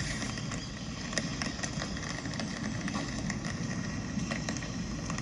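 Rainy city street ambience: a steady wash of noise with scattered light ticks.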